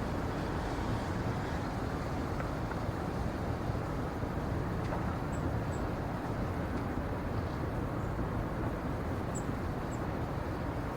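Steady low rushing outdoor ambience, with a few faint short high chirps about halfway through and again near the end.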